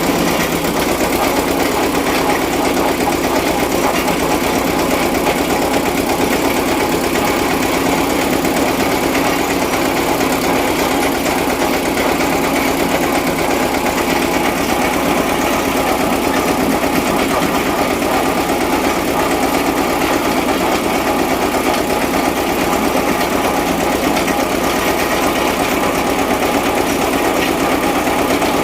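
22 HP Eicher diesel engine running steadily, driving the hydraulic pump of a mini borewell drilling rig as it bores down past 50 feet.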